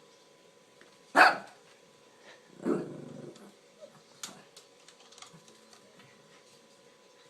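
A dog barks once, short and sharp, about a second in, then gives a lower, longer bark about a second and a half later, followed by a few faint clicks and scuffles.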